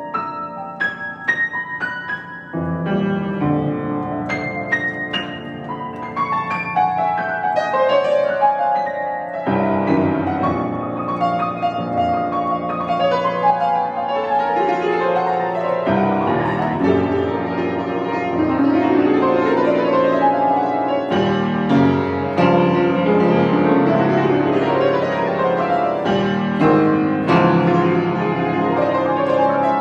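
Solo piano being improvised: a few separate struck notes, then from about three seconds in fuller, louder chords over sustained bass notes.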